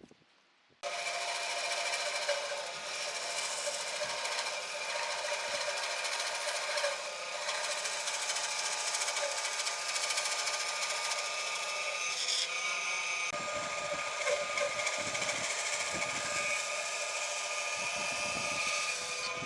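Electric power tool switched on about a second in and running steadily against wood, a continuous whine with a few fixed tones; low knocks join in during the second half.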